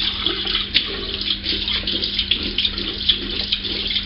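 Cold water running from a sink tap, splashing irregularly as hands scoop it up to rinse a freshly shaved face. A steady low hum runs under it.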